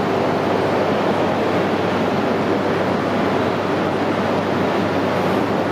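Steady, even rushing noise with a faint low hum, from a Shinkansen train standing idle at the platform with its onboard equipment running.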